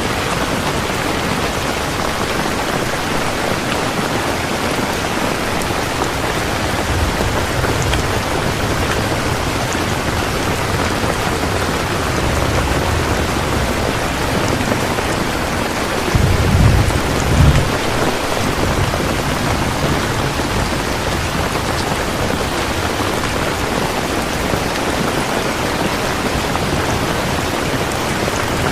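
Steady rain falling on a surface, with low rumbles of distant thunder through the middle, strongest about halfway through.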